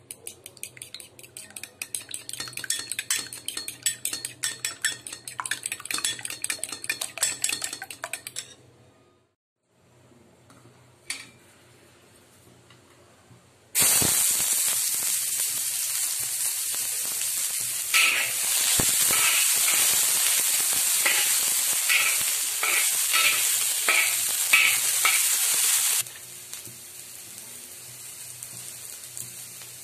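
A metal spoon beating an egg in a ceramic bowl with rapid clicking. After a pause, sliced onion dropped into hot oil sets off a sudden loud sizzle, with a few scrapes and knocks of the utensil on the pan. The sizzle drops to a quieter frying hiss near the end.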